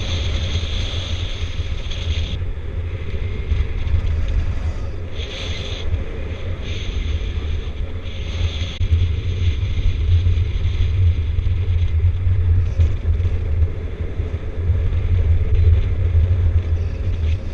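Wind buffeting the microphone of a paraglider in flight: a steady low rumble, with stretches of higher hiss that come and go every few seconds.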